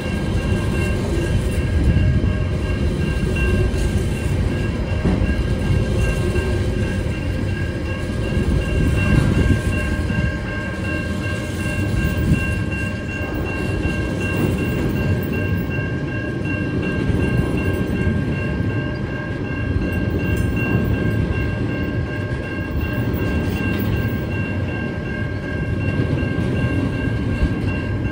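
Container wagons of a freight train rolling past: a steady rumble of steel wheels on the rails, with a steady high ringing tone over it.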